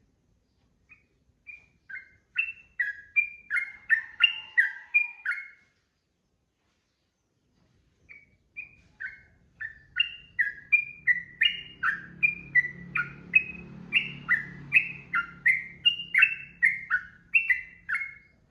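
Yellow-vented bulbul (trucukan) singing in rapid runs of short, sweeping whistled notes, about three a second. A first burst stops after a few seconds, and a longer run starts after a short pause.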